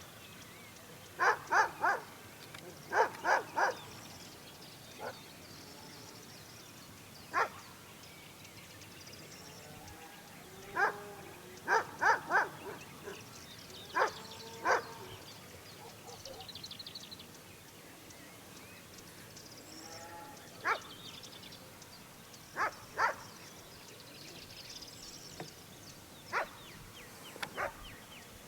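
A dog barking in short, sharp barks, sometimes singly and sometimes in quick runs of two or three, with pauses of several seconds between, while birds chirp faintly.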